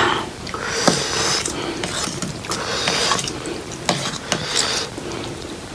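A person eating instant ramen noodles close to the microphone: slurping and chewing, with wet clicks and hissy intakes of breath that come and go every second or so.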